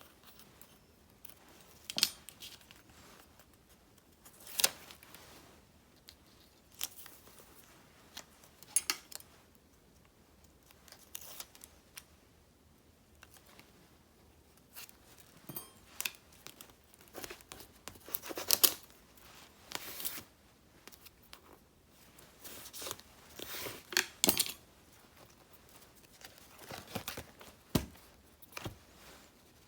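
Stationery being handled while decorating a journal: paper and sticker sheets snipped with scissors, peeled and rustled, in an irregular run of short crisp crackles and clicks.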